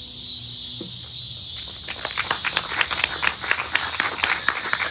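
Steady high buzzing of a cicada chorus. From about two seconds in, a small group of people claps irregularly.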